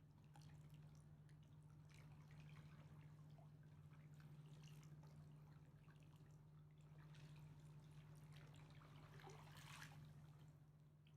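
Faint river water lapping and dripping at the shore, soft irregular splashes over a steady low hum.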